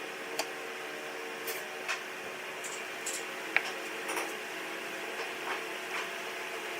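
A steady machine hum with scattered light clicks and ticks, one sharper click about halfway through.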